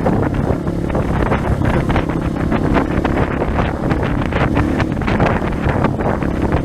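Trail motorcycle's engine running under way, with heavy wind noise buffeting the microphone.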